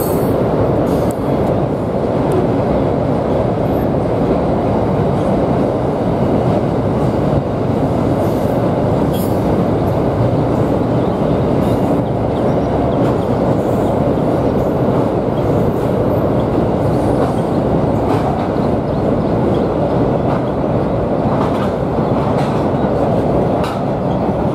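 Freight train wagons running across a steel truss rail bridge: a steady, loud rumble with wheels clacking over the rail joints.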